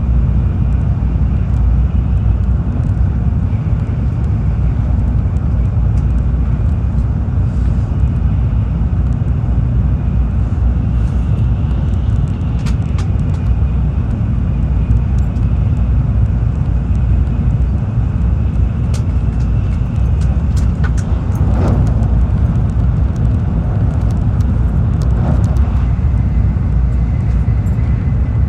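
Cabin noise of a Tokaido Shinkansen train running at speed: a steady low rumble, with scattered light clicks in the second half.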